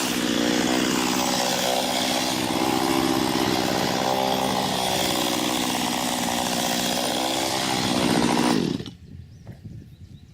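Small two-stroke chainsaw running at low speed off the throttle, its pitch wavering slightly. Near the end the engine is switched off and runs down to a stop.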